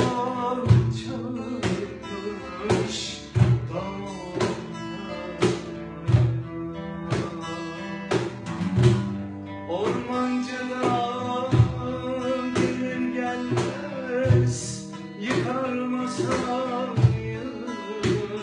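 Acoustic ensemble playing: plucked oud and guitar over regular cajon and darbuka hand-drum strikes.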